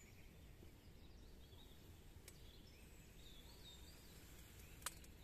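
Near silence of a quiet woodland pond, with faint bird chirps in the middle and one sharp click near the end.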